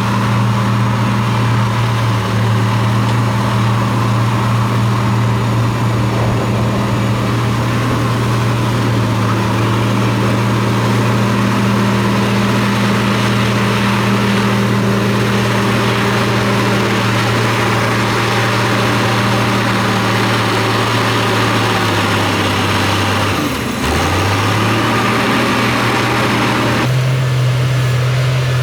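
Diesel engine of heavy earthmoving machinery running steadily under load. About 23 seconds in the engine note dips briefly and recovers. Near the end the sound changes abruptly to a slightly higher, cleaner engine note.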